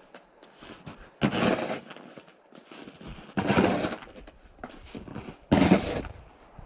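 Snow shovel working snow in a steady rhythm: a scraping scoop about every two seconds, three times.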